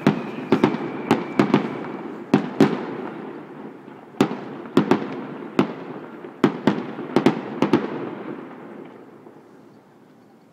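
Fireworks going off in a rapid volley: about fifteen sharp bangs at irregular spacing over a continuous crackling rumble, thinning out and fading away about eight seconds in.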